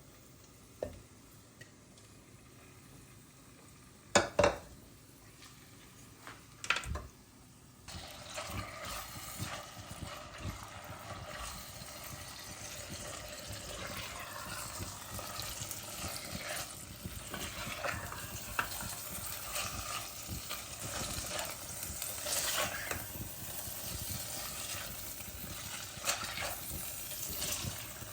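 A few short knocks of utensils on cookware, then, about eight seconds in, food starts sizzling in a hot pan and keeps crackling as it is stirred.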